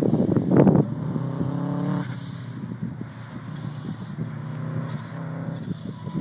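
Drift car's engine running hard at high revs, loudest in the first second, then holding a steady note and fading as the car moves away.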